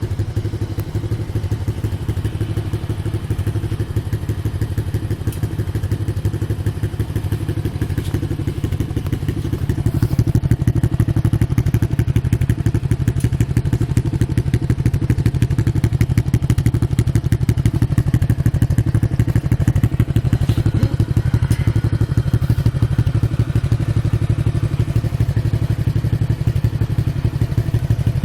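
Modenas GT128 motorcycle engine running steadily through an aftermarket E-Power Belang muffler, a fast, even run of exhaust pulses that gets a little louder about ten seconds in.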